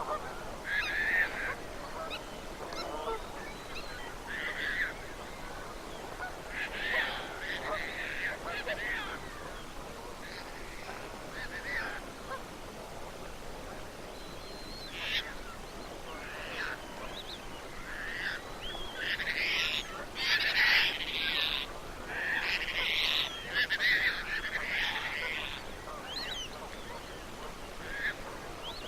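A flock of geese honking, with many overlapping calls that grow busiest about two-thirds of the way through.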